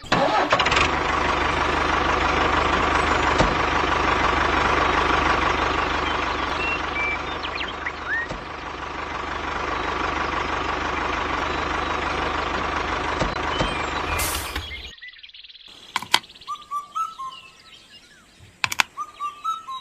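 A small motor running steadily with a low hum, stopping suddenly about fifteen seconds in; after it, birds chirp in short rising calls.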